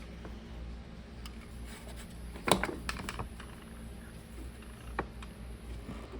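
Scattered light clicks and taps of plastic parts being handled as the small water pump is fitted back into a mini ice maker, with one sharper click about two and a half seconds in. A low steady hum runs underneath.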